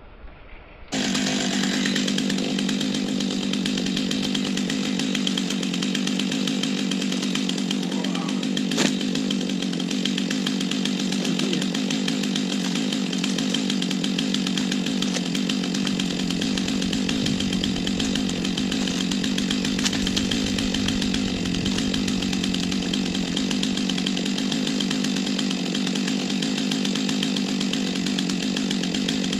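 Chainsaw running at steady high revs, cutting into a dead ash trunk for the back cut. It comes in suddenly about a second in and holds level throughout.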